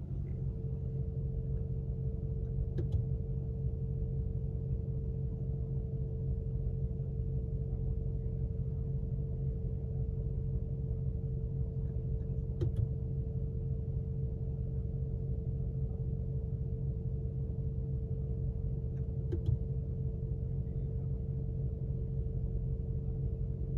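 Steady low rumble with one constant hum inside the cabin of a 2020 Mercedes-Benz G63 AMG, its twin-turbo V8 idling. There are three faint clicks along the way.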